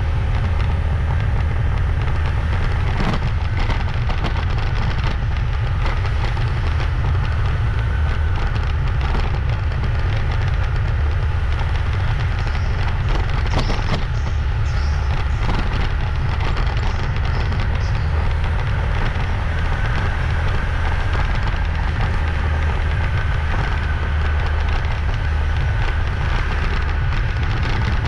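Steady low rumble of wind and road noise from a motorbike being ridden, with a few brief knocks, the clearest about 3 and 14 seconds in.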